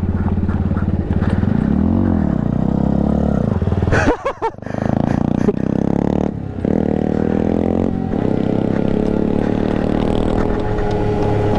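Motor scooter engine running under way, heard from the rider, its note rising and falling with the throttle about two seconds in. A short clattering break about four seconds in, then the engine runs on steadily.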